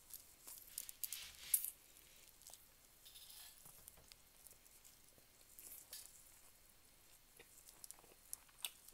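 Quiet, close-up eating sounds: a mouthful of rice taken by hand and chewed, with soft wet lip smacks, then a few short sharp ticks later on as fingers pick at fish on the foil.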